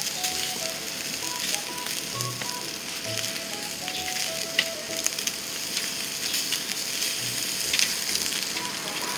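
Beef tongue sizzling on a grill over a fire-pit fire: a steady hiss with scattered small pops.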